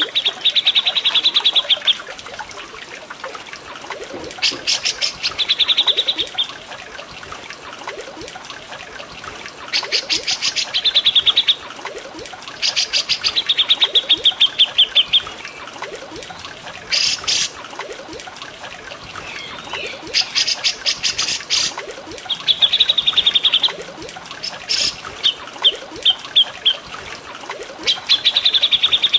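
Cucak jenggot (grey-cheeked bulbul) and cililin birds singing in short phrases every few seconds, fast pulsed trills alternating with brief rattling chatters. Steady trickling water runs under the song.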